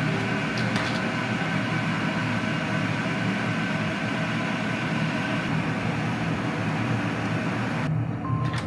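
A steady mechanical hum with a low drone and a faint whine, starting abruptly; near the end the hiss on top drops away and a short steady tone sounds.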